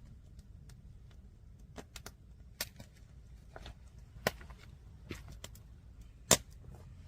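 Firewood burning in a stacked log tower, crackling with scattered sharp pops, the loudest about six seconds in.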